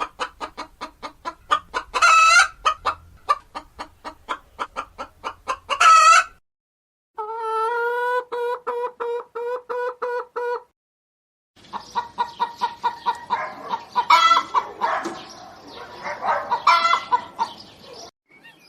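Chickens clucking and calling in quick repeated notes, in three stretches separated by short silent gaps, with a few louder calls standing out.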